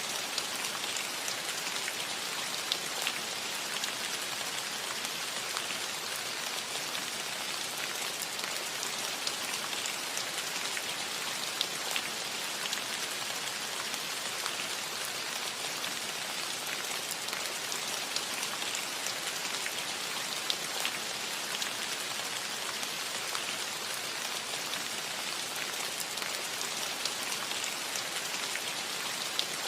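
Steady rain falling on a cottage roof, an even hiss with many distinct drop hits pattering through it.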